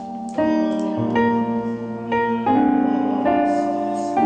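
Piano-style keyboard playing the hymn accompaniment, a run of sustained chords that change about every half second to a second.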